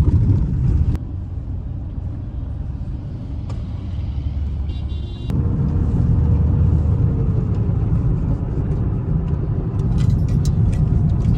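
Road and engine noise inside a moving car: a steady low rumble of tyres and engine that drops back about a second in and comes up again about five seconds in. A short high beep sounds just before that.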